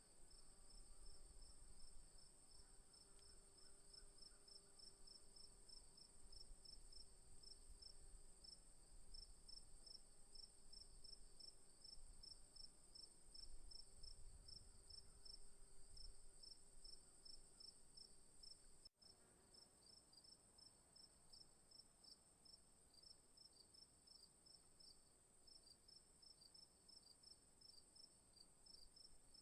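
Crickets and other insects in the bush: a fast, even pulse of chirps under a steady high trill, faint. A faint low hum runs underneath until about two-thirds of the way through, where the sound briefly drops out.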